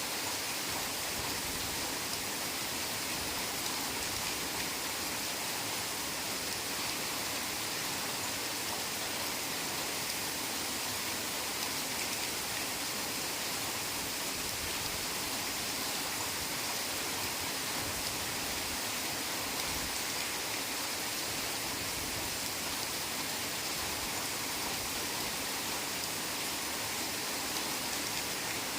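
Heavy rain falling steadily in a forest: a continuous, even hiss of downpour with no individual drops or thunder standing out.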